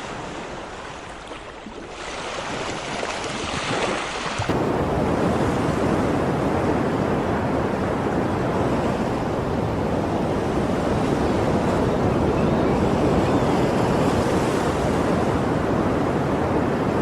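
Ocean surf, a steady rushing wash of waves. About four and a half seconds in it switches abruptly to a louder, fuller rush with a deep low rumble, which then holds steady.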